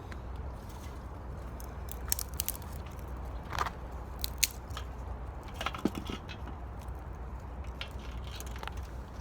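Firewood crackling and snapping: a scattered run of sharp cracks and crackles, the loudest about four seconds in, over a steady low hum.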